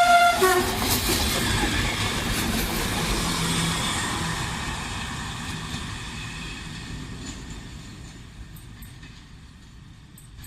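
A train passing: its horn ends about half a second in, then the rumble of the train with wheels clacking over rail joints, fading steadily as it moves away.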